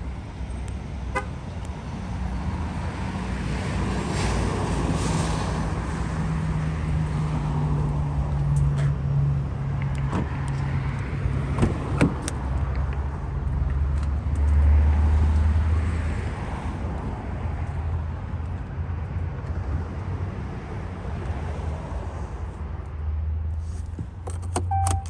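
Cummins 6.7-litre turbo diesel engine of a Ram 2500 pickup running with a steady low drone, swelling briefly about two-thirds of the way through. A few sharp clicks sound about halfway in.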